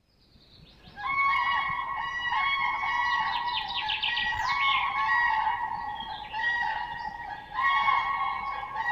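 Several cranes calling, their repeated trumpeting calls overlapping one another, starting about a second in.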